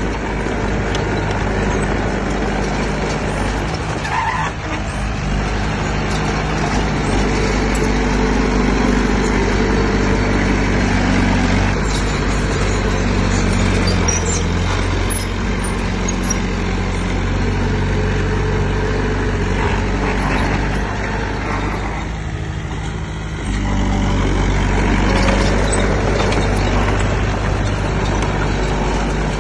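Heavy diesel engine of earthmoving machinery running steadily under load. It drops back about three-quarters of the way through, then picks up again.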